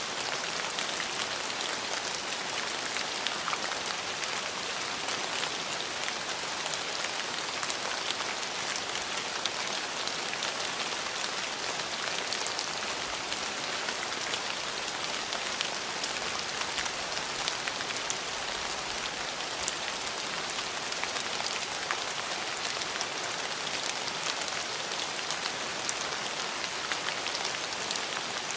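Steady rain falling on hard surfaces, an even hiss with fine scattered drop taps throughout.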